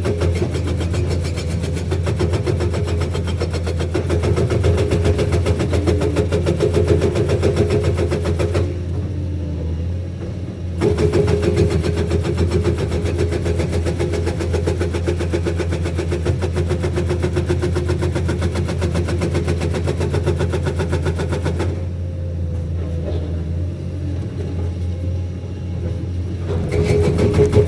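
Hydraulic breaker on a Komatsu PC210 excavator hammering in rapid blows over the steady run of the excavator's diesel engine; the hammering stops twice, for about two seconds near the middle and for about five seconds later on, leaving the engine running alone.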